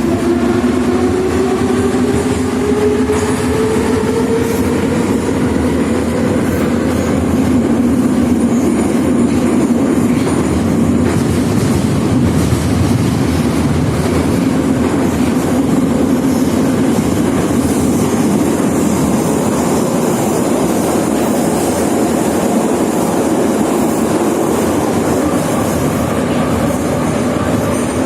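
Moscow Metro 81-717.5/714.5 'Nomernoy' train under way. Its traction motors whine, rising in pitch as it accelerates over the first several seconds, then it runs steadily with wheel and rail rumble.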